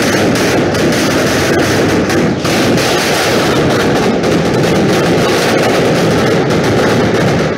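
Dense barrage of fireworks and firecrackers, many bangs overlapping into a loud, unbroken crackle.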